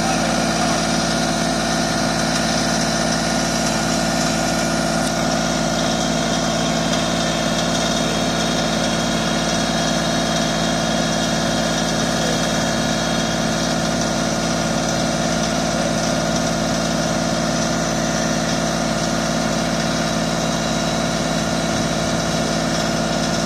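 Tractor engine running steadily at idle, an even hum that holds the same speed throughout.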